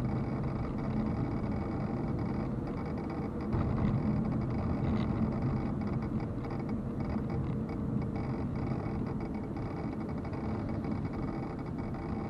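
A car driving steadily: an even run of engine hum and road noise, a little louder for a few seconds near the start.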